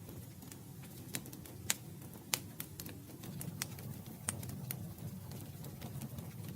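Campfire crackling: irregular sharp pops and snaps of burning wood, a few noticeably louder, over a steady low rumble of the flames.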